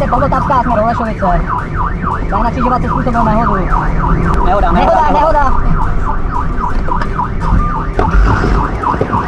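Police sirens in a fast yelp, their pitch sweeping rapidly up and down several times a second without a break, over a steady low rumble of vehicles.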